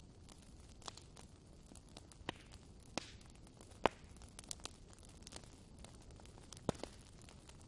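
Wood fire burning in a fireplace: a low steady hiss with irregular sharp crackles and pops, the loudest pops about four seconds in and again near the end.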